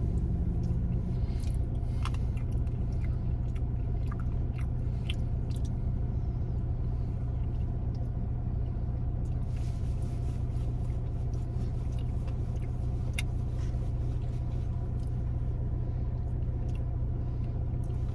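Steady low rumble of an idling car heard from inside, with scattered small clicks and chewing as someone eats ice cream from a cup with a spoon.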